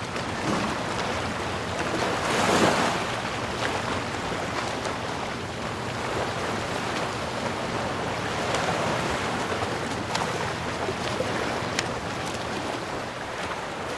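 Sea waves washing on a shore in a continuous rush of surf, with one louder swell breaking about two and a half seconds in and softer swells later.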